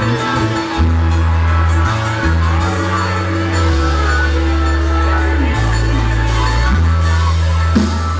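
Live country band playing an instrumental passage: held low bass notes that change pitch about every second under drums and cymbals, in a loud, rough audience recording.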